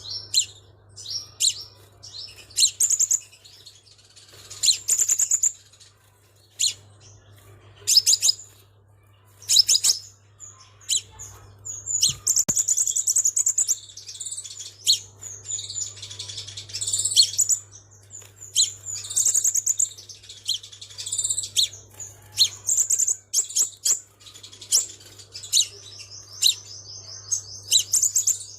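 Crimson sunbird singing: a rapid string of thin, high-pitched chirps and trills, with several longer fast trills, one of them an evenly pulsed trill near the end.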